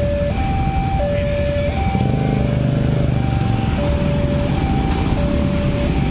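Railway level-crossing warning alarm sounding: an electronic two-tone signal that alternates between a lower and a higher tone about every three-quarters of a second, warning that the crossing is closed for a train. It sounds over steady road traffic, with a vehicle engine running briefly about two seconds in.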